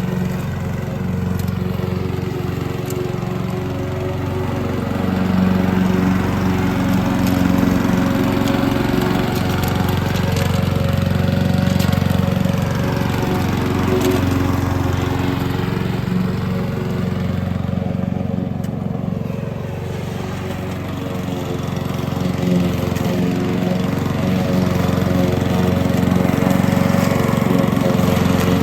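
Petrol lawn mower engine running steadily under load, its level swelling and easing every few seconds.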